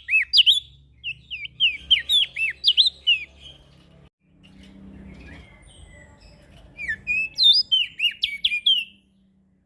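Prenjak daun songbird singing rapid runs of sharp, swooping chirps in two bouts, with a gap of a few seconds between them.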